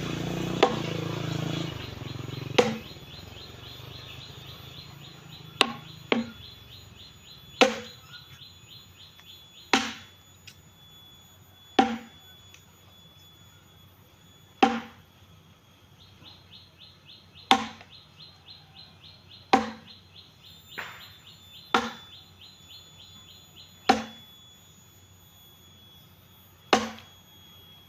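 Firewood being chopped by hand with a blade: about a dozen sharp chops, roughly one every two seconds. A high pulsing chirr comes and goes behind them.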